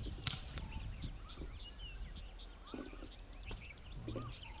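Birds chirping and calling in short, repeated chirps and trills over a steady high-pitched hiss, with one sharp click about a quarter of a second in.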